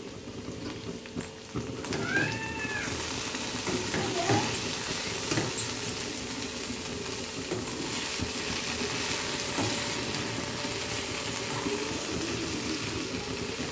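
Okra pieces frying in oil in a steel pan: a steady sizzle, with a perforated metal spoon scraping and clicking against the pan as it stirs. A short high cry that rises and falls comes about two seconds in.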